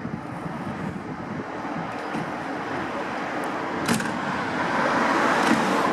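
Road traffic noise, growing louder over the second half as a vehicle draws near, with a single sharp click about four seconds in.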